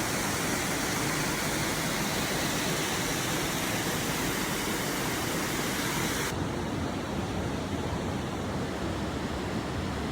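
Steady rushing of fast water in the canyon's stream or waterfall, an even hiss. About six seconds in the sound turns duller as its high hiss falls away.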